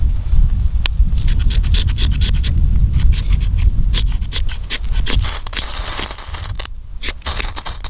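Knife scraping down a ferrocerium rod in a quick run of sharp scratching strikes, throwing sparks onto a feather stick's fine curls to light it. A steady low rumble sits underneath.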